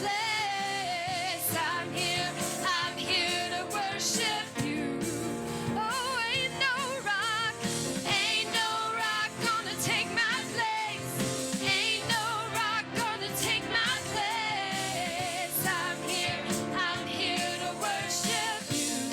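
Gospel praise song sung live by a church worship team with a band, the voices wavering with vibrato.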